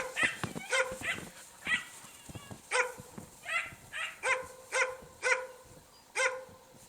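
Norwegian Elkhound barking: about a dozen short, sharp barks at an uneven pace, stopping near the end.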